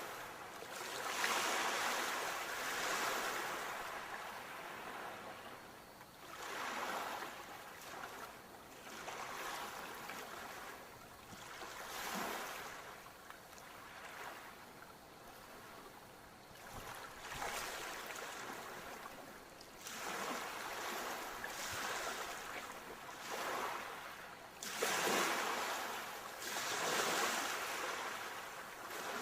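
Ocean waves breaking and washing up the shore, a steady hiss that swells with each wave: several surges, the largest near the start and near the end, with quieter wash between.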